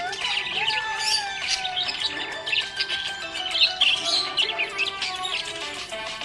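Budgerigars chirping and chattering in a rapid, continuous stream of short high chirps, over background music.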